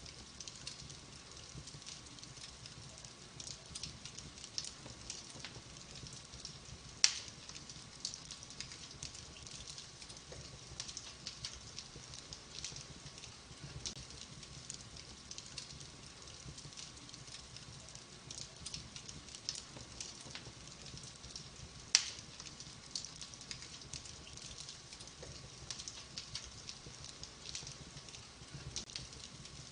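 Wood fire burning in a fireplace, crackling steadily with many small snaps. Two much louder pops stand out, about 7 seconds and 22 seconds in.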